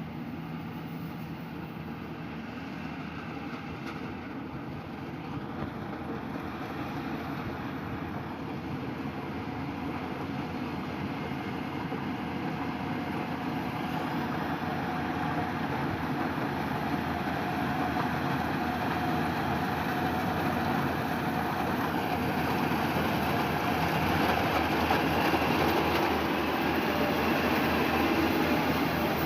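A machine engine running steadily, growing gradually louder throughout, as of harvest machinery working in the rice field or drawing nearer.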